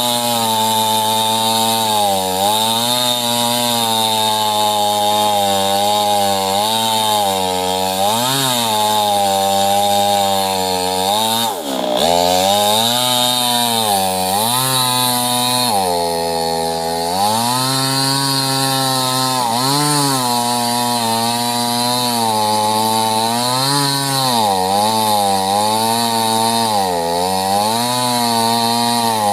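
Small two-stroke chainsaw running hard while cutting sengon wood, its engine pitch rising and falling again and again as it bogs into the cut and recovers, with a brief drop about twelve seconds in.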